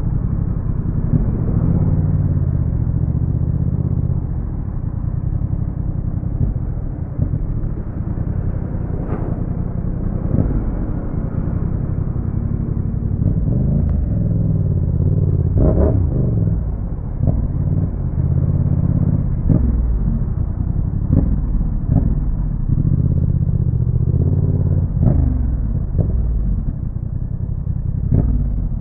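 Yamaha MT-07's 689 cc parallel-twin engine breathing through a Roadsitalia aftermarket exhaust, heard from the moving bike as it filters through traffic. A steady low exhaust note is broken many times by short rev rises and falls as the throttle is opened and closed.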